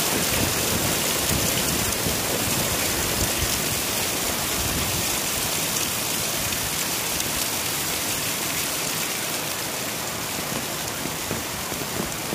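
Torrential, cloudburst-like rain pouring down in a steady, dense hiss.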